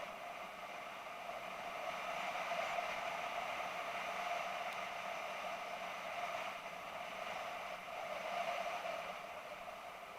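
Steady rushing wind and road noise of a BMW F650GS motorcycle under way, with no distinct engine note standing out.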